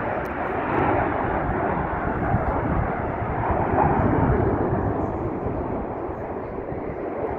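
Airplane flying past at an air show, its engine noise swelling about halfway through and then fading away.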